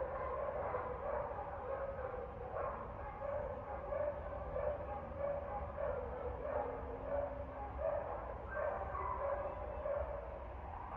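Dog barking over and over, roughly one to two barks a second, over a steady low hum.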